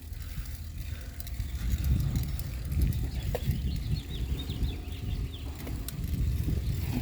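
Wind rumbling and buffeting on a bike-helmet camera's microphone while cycling, with a short run of high chirps about halfway through.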